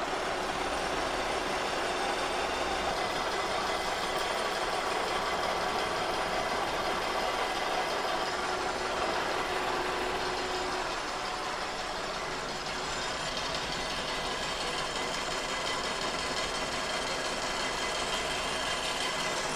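Kearney & Trecker 2HL horizontal milling machine running steadily at 336 rpm under power feed, its cutter taking a light 25-thousandths pass across a cast iron straight edge.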